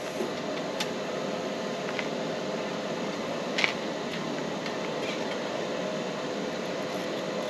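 Steady mechanical fan hum with a faint constant tone, broken by a few light clicks, the sharpest about three and a half seconds in.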